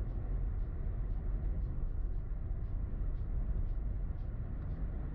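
Steady low road and engine rumble of a car driving on snowy roads, heard from inside the vehicle, with faint regular ticking about twice a second.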